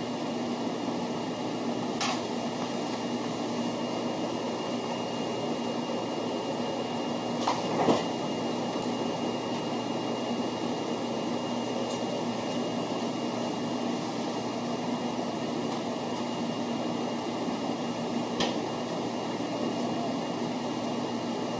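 Steady running noise heard inside the cabin of a 0 series Shinkansen as it pulls into a station, with a few short knocks from the running gear, the loudest about a third of the way in.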